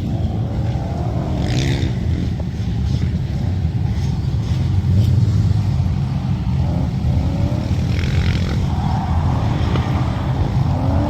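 Car engine running hard, a steady loud rumble, with brief higher-pitched sounds about a second and a half in and again near eight seconds.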